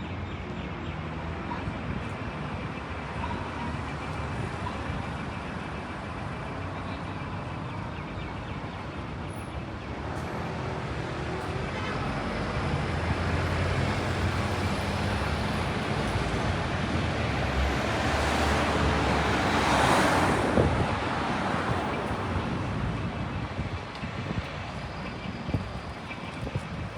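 City street traffic. A motor vehicle approaches and passes close, its engine rumble and tyre noise growing louder to a peak about twenty seconds in, then fading.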